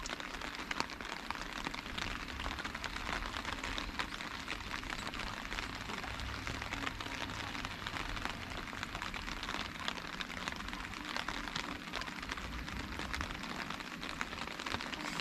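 Heavy rain falling steadily, with many small, sharp drop hits close by.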